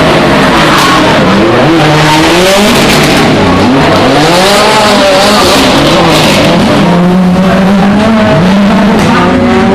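Rally car engine revving hard, its pitch climbing and dropping again and again through gear changes and lifts, with tyres squealing as the car slides through the corners. Loud.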